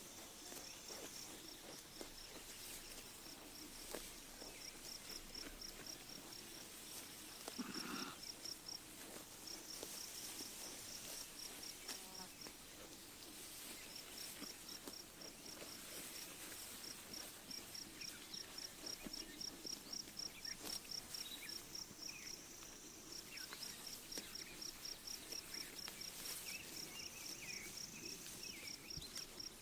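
Faint pasture ambience: an insect chirping in a steady high-pitched pulse of about four chirps a second, breaking off now and then, with a few short bird chirps in the second half.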